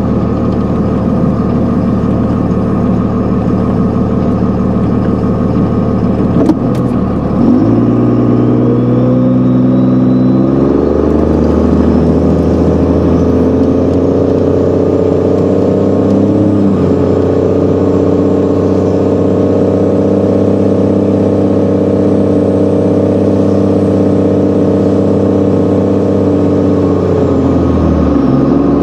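Tuned 5.9-litre Cummins inline-six turbo-diesel of a 2001 Dodge Ram 2500 running steadily, then, after a short click, stepping up and climbing in pitch over a few seconds. It holds a higher steady note, with a faint high whine rising alongside, and drops back near the end.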